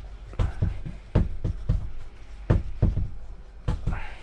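Irregular dull knocks and thumps, about a dozen, as a motorcycle tire with powder in it is handled and shifted.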